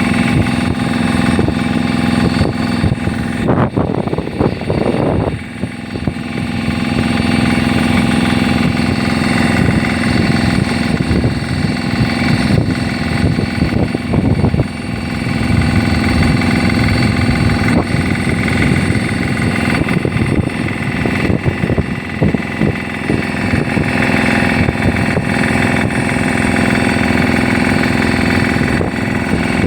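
An engine running steadily at a constant pitch, a continuous low hum.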